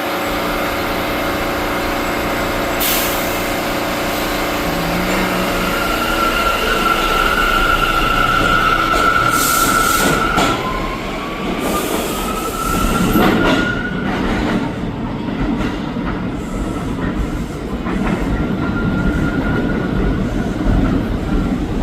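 NYC subway R179 train running through an underground station, with a steady high-pitched squeal for a few seconds, then a rising whine as it gathers speed, and wheel noise throughout.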